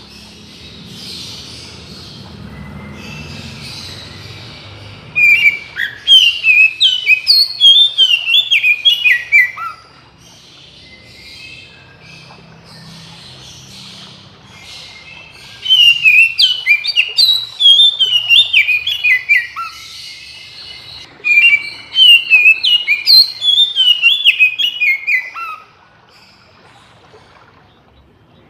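Oriental magpie-robin (kacer) singing: three loud runs of quick, downward-slurred whistled notes, each several seconds long, with quieter pauses between them.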